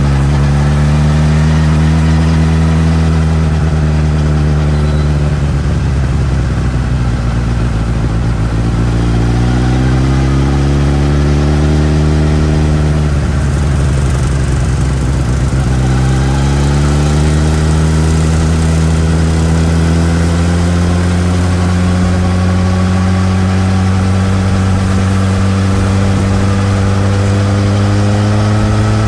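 Suzuki GSX-S1000 inline-four on its stock exhaust, riding: the engine note climbs and eases off with the throttle, drops sharply about halfway, then climbs slowly and steadily for the rest.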